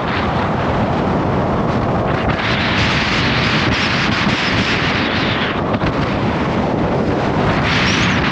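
Gale-force wind buffeting the microphone: a loud, steady rushing, with stronger gusts about two and a half seconds in and again near the end.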